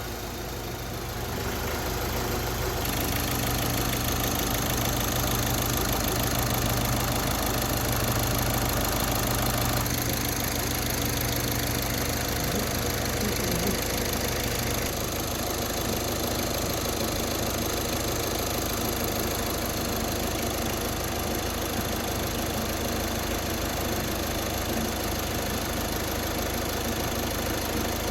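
Volkswagen car engine idling steadily during an engine flush.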